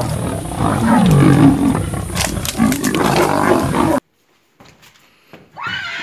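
Several lions growling, rough calls rising and falling over one another, cut off abruptly about four seconds in. Near the end a horse begins to whinny.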